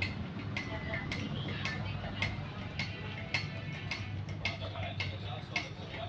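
Sharp mechanical ticking, evenly spaced at about two ticks a second, over a low steady hum.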